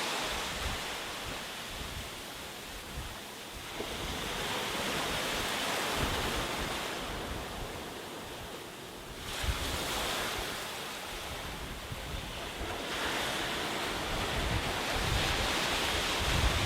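Sea waves breaking and washing up on a beach, swelling and easing every few seconds, with wind buffeting the microphone.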